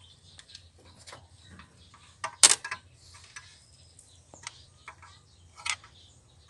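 Hand tools clicking and clinking against metal engine parts as bolts are tightened during reassembly: scattered short metallic clicks, with the loudest knocks about two and a half seconds in and another shortly before the end.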